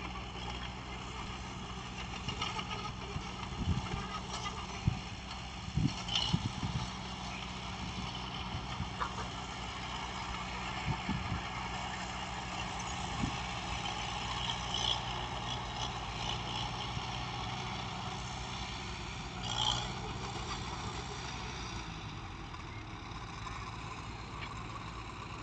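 Heavy earthmoving machinery's diesel engine running steadily, with scattered knocks and clunks in the first half and a short hiss about twenty seconds in.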